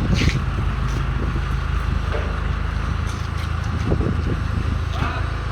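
Truck's diesel engine running steadily, with a short hiss just after the start.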